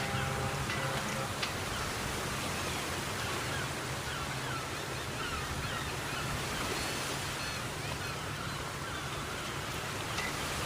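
A steady roar of surging water, like a heavy sea sweeping through a harbor, with many short high chirps over it and a low steady hum underneath. A held tone fades out within the first second.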